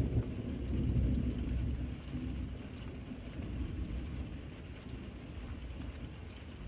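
Steady rain with a low thunder rumble that dies away over the first two seconds.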